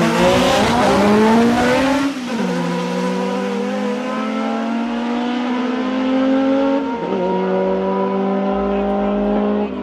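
A drag-racing car's engine accelerating hard down the strip, its pitch climbing through the gears with two sharp drops at upshifts, about two and seven seconds in.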